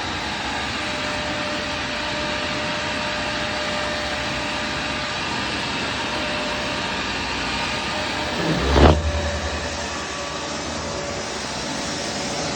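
Vacuum cleaner running steadily, its motor giving a constant rushing noise with a faint steady whine. About two-thirds of the way through there is a brief louder bump, followed by a deeper rumble for about a second.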